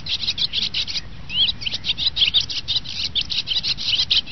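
Songbirds chirping in a dense chorus: rapid high chirps, many a second, with short rising and falling pitch sweeps.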